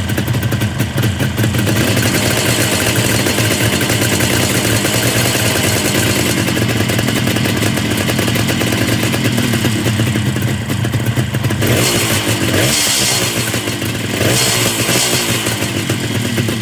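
Kawasaki H1 Mach III's 500cc inline three-cylinder two-stroke engine running, revved up twice in quick succession near the end.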